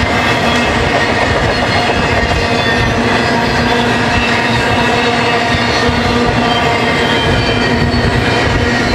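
Double-stack intermodal freight cars rolling past at close range: a steady, loud rumble of wheels on rail with clickety-clack, and sustained ringing metallic tones over it.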